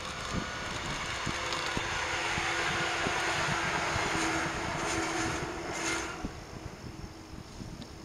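Shinano Railway 115 series electric multiple unit running past, its wheels knocking over the track. The noise swells over the first few seconds and fades after about six seconds as the train moves away.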